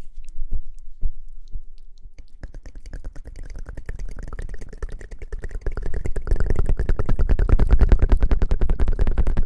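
Close-miked ASMR rustling: a few soft taps, then from about two seconds in a fast, dense run of scratchy rubbing strokes on the microphone, growing louder about six seconds in.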